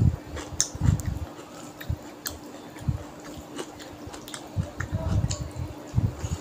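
Close-up wet chewing of a mouthful of rice and fish curry, with repeated soft smacks and sharp clicks, over a faint steady hum.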